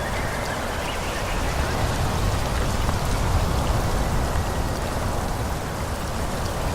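Wind blowing through forest trees: a steady rushing of leaves with a low rumble beneath, swelling slightly in the middle.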